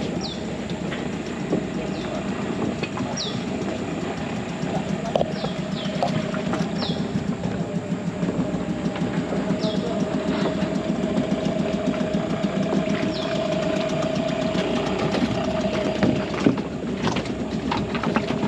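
An engine running steadily, with short high falling chirps repeating roughly once a second through the first half.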